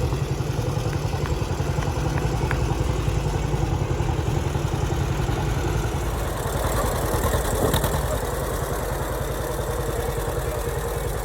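Antique tractor engine running with an even, low firing rhythm.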